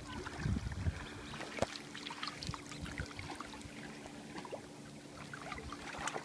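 Lake water lapping with many small splashes and ticks, over a faint steady hum.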